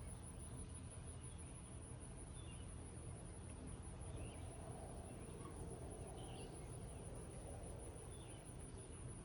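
A steady, high, pulsing insect trill like crickets over a soft haze of light rain, with small bird chirps about once a second and a faint lower sound in the middle few seconds.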